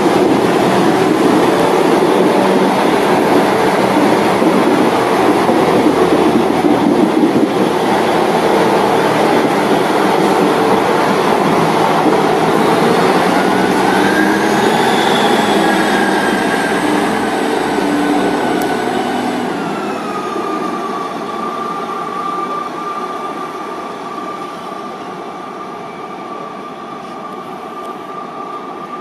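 An East Midlands diesel multiple unit passing through the station without stopping, with a loud, steady rumble of wheels on rails. About halfway a whine rises, then drops in pitch as the train draws away, and the sound fades, leaving a steady fainter whine.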